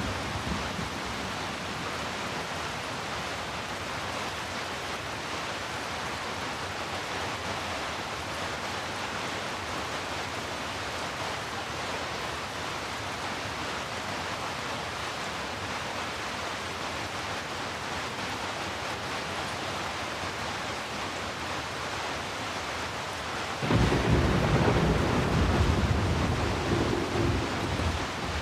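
Steady rain falling, with a rumble of thunder that breaks in suddenly near the end, louder and deep, and fades over a few seconds.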